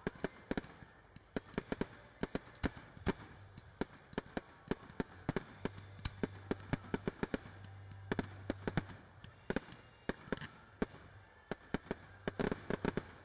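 Fireworks going off: a rapid, irregular string of sharp cracks and pops, several a second.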